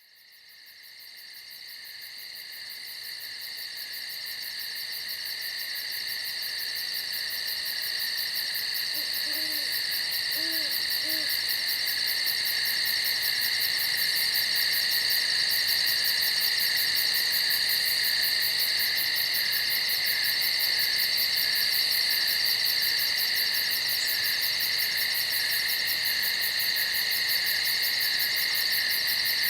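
Dense, steady high-pitched chorus of night insects with a fast even pulse, fading in from silence over the first dozen seconds. Three faint low hoots come about ten seconds in.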